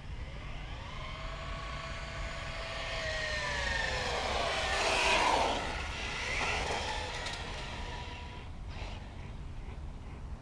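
Axial Yeti Score RC trophy truck's electric motor whining, its pitch rising and then falling as the truck speeds up and slows. About halfway through comes the loudest part, a hiss of the big tyres scrubbing and drifting on the ground.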